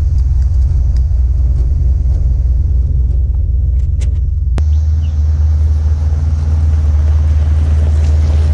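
A first-generation Dodge Ram pickup driving: its engine and drivetrain make a loud, steady low rumble. About four and a half seconds in there is a sharp click and the pitch of the rumble shifts.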